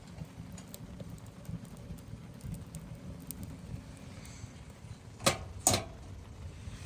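Two sharp knocks about half a second apart, over a steady low rumble and faint scattered ticks.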